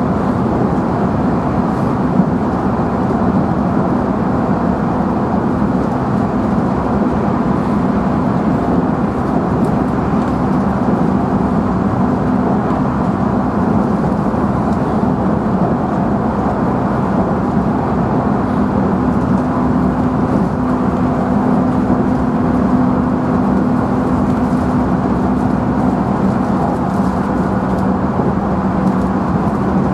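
JR Central 311 series electric train heard from inside its motor car while running at speed: a steady whine from the traction motors and gears over the rumble of the wheels on the rails.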